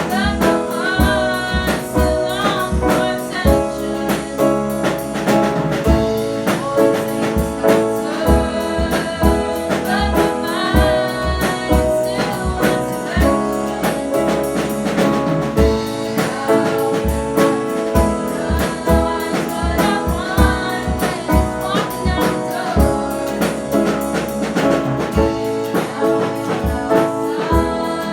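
A band playing a song in the studio, with singing voices carrying the melody over a frequent low drum beat.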